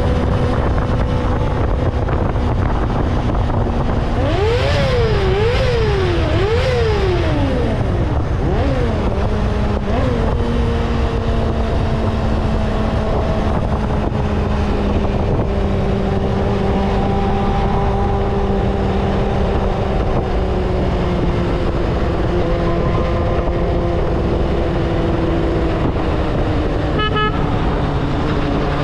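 Vehicle engine under way with heavy road and wind noise. A few seconds in it is revved three times in quick succession, then its pitch drops as it shifts and settles into steady running. Near the end come short, repeated beeping tones.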